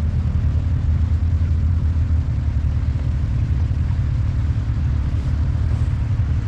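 ATV engine running steadily, a continuous low rumble.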